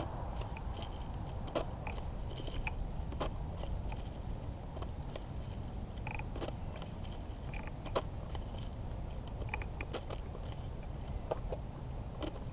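Airsoft gun and magazine being handled during a reload: scattered small clicks and scrapes of plastic and metal, over a steady low rumble of handling noise on the microphone.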